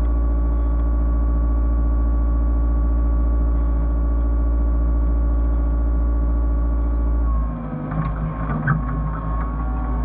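Hyundai excavator's diesel engine and hydraulics running steadily under load. About seven and a half seconds in, the load drops and the pitch falls, followed by a few knocks and squeaks.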